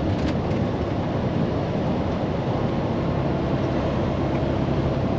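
Day-cab semi truck's diesel engine and road noise heard from inside the cab, running steadily while under way.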